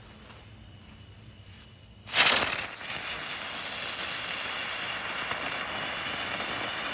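Modified two-blade aerial spinner firework igniting about two seconds in with a sudden loud burst, then hissing steadily for several seconds as its charge burns; it fails to lift off and fly.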